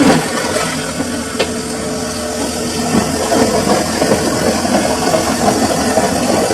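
Samsung washing machine running through its cycle: a steady mechanical noise with a few small knocks.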